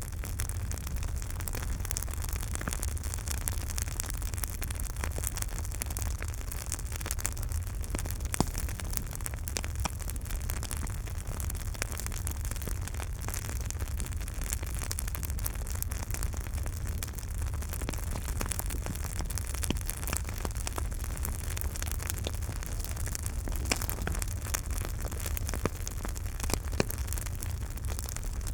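Campfire burning: a steady low rumble of the flames with frequent small crackles and occasional sharper pops of burning wood.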